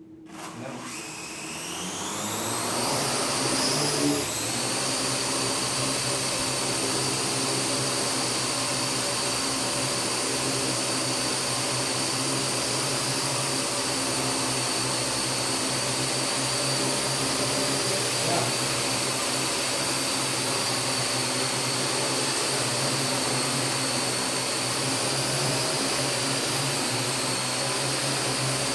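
Parrot AR.Drone quadrotors' electric motors and propellers spinning up, the whine rising in pitch over the first few seconds, then a steady high whine of several tones as they hover.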